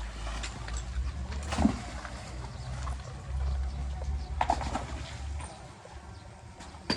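Heavy machinery's engine running low and steady, with a couple of sharp knocks, one about a second and a half in and another past the middle.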